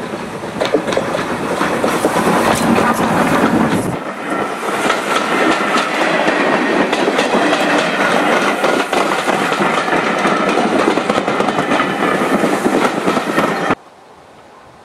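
Steam-hauled passenger train passing close: the locomotive goes by running tender-first, then the coaches' wheels clatter over the rail joints in a steady clickety-clack. The sound cuts off abruptly near the end to a faint steady outdoor hush.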